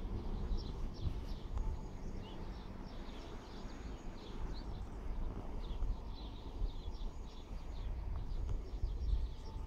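Small birds chirping in a rapid run of short, high chirps, over a low, uneven rumble.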